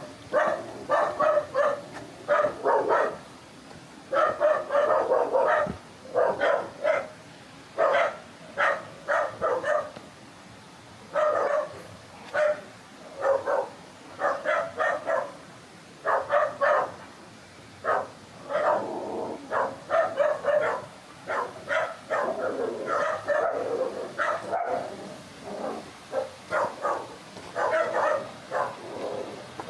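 A dog barking over and over in quick runs of short barks, with brief pauses between runs, over a steady background hiss.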